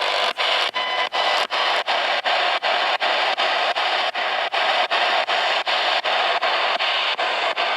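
Spirit box (a ghost box radio) sweeping through stations: steady loud static chopped by a brief dropout about three to four times a second as it steps from one frequency to the next.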